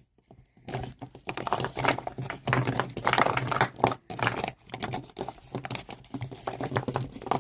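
Close-up crinkling and crackling of a tape-wrapped tissue "tissue wax" being handled, in quick irregular clusters of small crackles with brief pauses.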